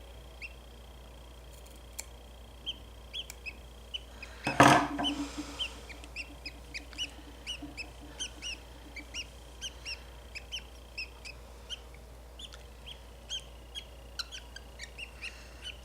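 Budgie chirping over and over in short high chirps, about two a second, with one loud harsh squawk about four and a half seconds in.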